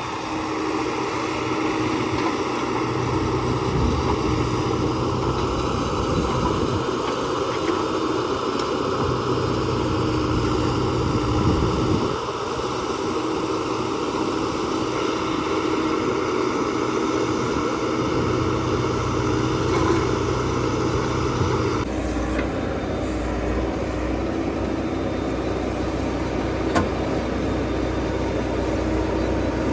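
JCB 3DX backhoe loader's diesel engine running steadily under work. About two-thirds of the way through, the engine note shifts and gains a deeper rumble.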